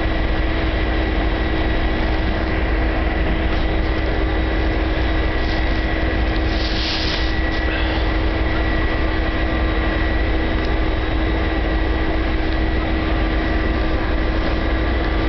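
Train idling at a station platform: a steady low engine rumble with a constant whine over it, and a short hiss about seven seconds in.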